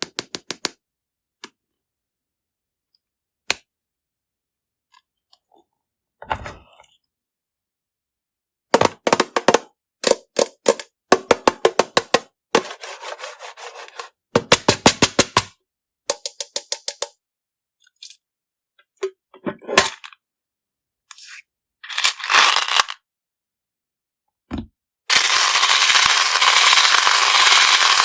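Small hard candies clattering onto and into plastic containers, in quick runs of sharp clicks with silent gaps, then a dense continuous rattle near the end as a stream of candies is poured.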